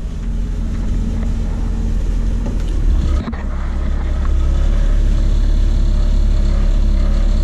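Straight-six engine of a 1967 Ford Mustang running with a steady low rumble, heard from inside the cabin. Its note breaks briefly about three seconds in, and it runs a little louder from about halfway as the car is got under way in reverse.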